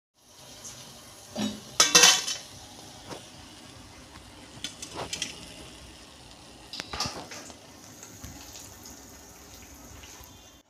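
Colocasia-leaf bhajji frying in hot oil with a steady sizzle, and a metal spoon knocking and scraping against the steel pan several times, loudest about two seconds in.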